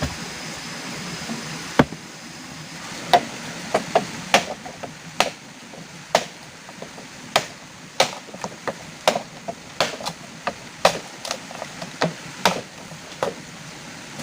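Repeated chopping with a blade: sharp strikes about once a second, with lighter taps between, settling into a steady rhythm a few seconds in, over a steady background hiss.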